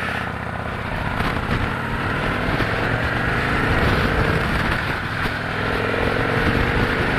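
Victory Cross Country's V-twin engine running under way, with its note climbing a little in the second half, over wind noise on the microphone.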